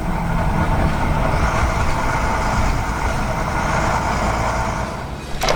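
Vehicle engine running steadily, a truck-like drone, which dips near the end as a sudden clatter of clicks starts.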